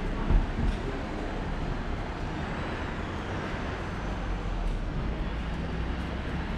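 Rainy street ambience: a steady wash of rain and wet-road noise over a low rumble, with two dull thumps under a second in.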